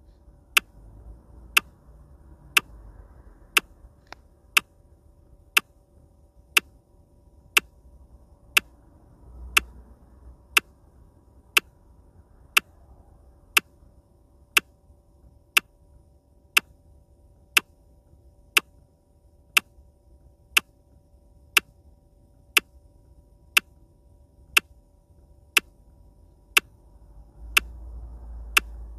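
Sharp ticks at a steady one per second, evenly spaced, over a faint steady hum.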